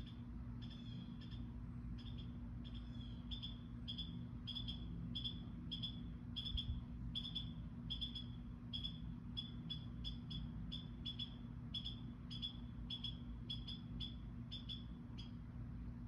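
A bird calling with a short, high chirp repeated steadily about twice a second, over a steady low hum.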